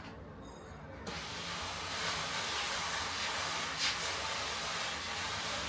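A steady hiss that starts suddenly about a second in, with a brief louder burst near four seconds.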